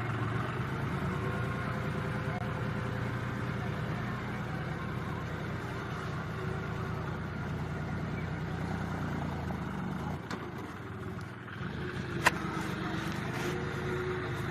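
Tractor diesel engine running steadily, easing briefly about two-thirds of the way through, with a single sharp click shortly after.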